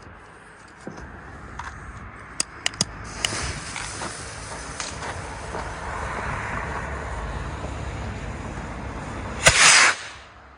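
ElGato Voladoor K-20 Trueno category F3 firework: a few sharp clicks, then its fuse hisses for about six seconds. About nine and a half seconds in comes a very loud bang that lasts about half a second, and the sound dies away soon after.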